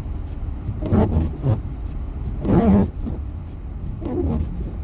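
Inside the cabin of a Honda Pilot driving through snow: a steady low rumble of engine and tyres, with a few short louder sounds breaking through.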